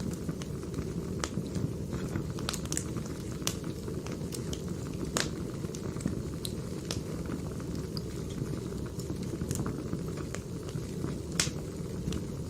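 Firewood burning: a steady low rumble with irregular sharp pops and crackles, the sharpest near the end.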